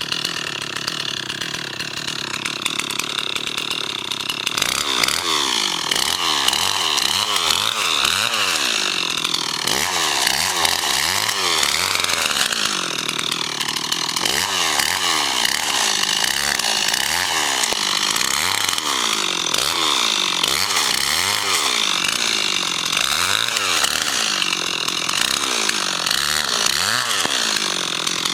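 Bulldozer's diesel engine working hard, its pitch rising and falling every couple of seconds as the load changes, and louder from about four seconds in.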